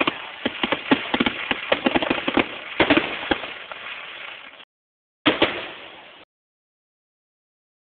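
Fireworks display: a rapid run of pops and bangs, several a second, heard through a phone recording. The sound cuts out abruptly about four and a half seconds in, comes back with one more bang-led burst about a second later, then drops to dead silence.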